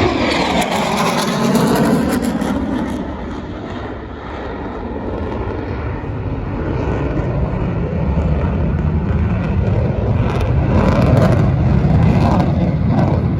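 Aircraft engine roar from a display plane in a combat turn: it sweeps down in pitch as it passes in the first few seconds, eases off, then builds to another loud pass near the end.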